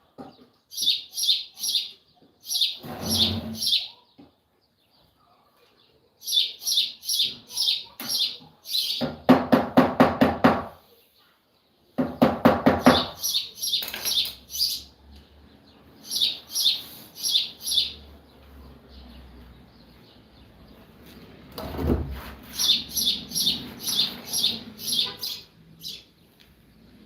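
A bird chirping in quick runs of high calls, about four to five a second, repeated throughout, with two louder, lower-pitched calls about a third and halfway through.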